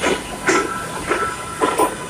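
Kawasaki R142A subway train running, its wheels clacking over rail joints about five times in two seconds, irregularly, over a steady rumble with a thin high whine.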